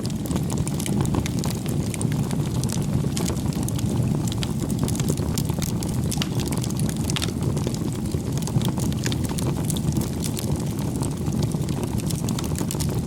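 Wood fire burning steadily: a constant low rumble of flames with many small crackles and pops scattered throughout.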